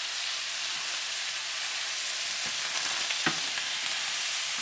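Chicken wings sizzling in a hot pan of XO sauce, a steady frying hiss, with a light knock or two of the spatula as they are stirred with green onion and cilantro.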